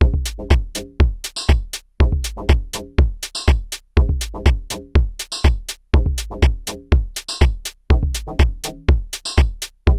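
Korg drumlogue drum machine playing a looping pattern: a kick on about every half second, bright hi-hat and clap hits, and a pitched bass line, repeating every two seconds.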